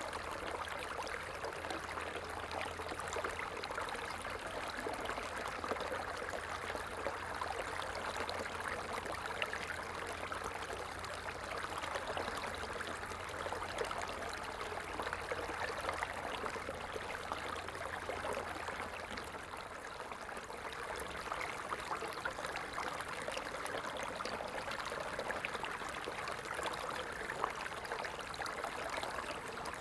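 Stream water flowing and trickling steadily, an even rushing sound with no breaks.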